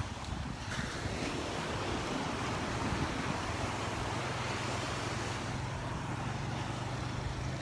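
Gulf surf washing up on the beach in a steady wash, with wind buffeting the microphone and a faint steady low hum underneath.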